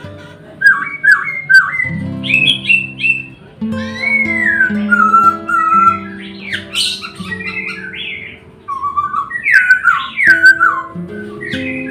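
Songbird singing in quick runs of falling whistled notes over soft instrumental music with held low notes; the bird pauses briefly a little past the middle.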